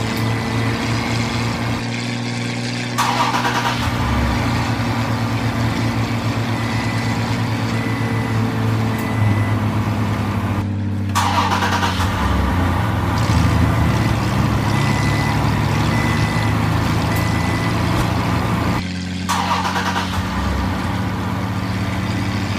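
Truck engine running steadily, a low even hum with noise over it, broken by sudden cuts about 2, 11 and 19 seconds in.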